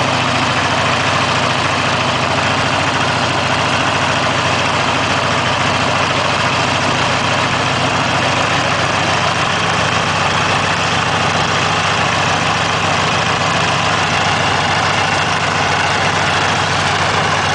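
British Aircraft Swallow's geared aero engine running steadily, just after a hand-propped start.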